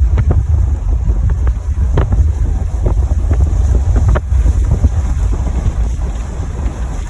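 Strong wind buffeting the microphone: a loud, low rumble with scattered pops and crackles.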